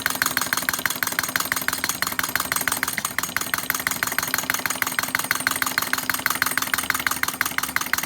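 Small flame licker (vacuum engine) running steadily on an alcohol flame: a rapid, even clatter of clicks from its valve and piston as it draws the flame in each stroke.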